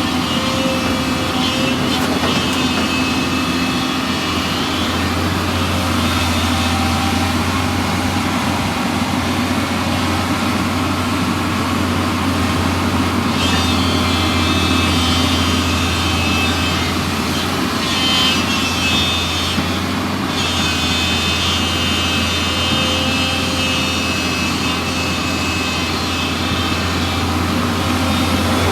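Hyundai Robex 210 excavator's diesel engine running steadily, with a higher whine coming in over it a little under halfway through and again later.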